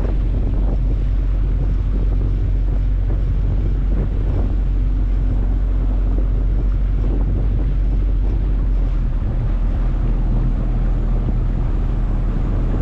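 Motorboat engine running steadily while under way, a low even hum, with wind buffeting the microphone and water washing past the hull.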